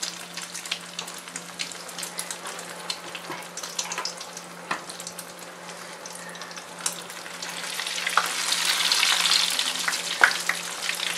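Egg-coated chicken shami kababs shallow-frying in oil on a low flame: a steady sizzle with scattered crackles and pops. It swells louder about eight seconds in, and a single sharp tick comes near the end.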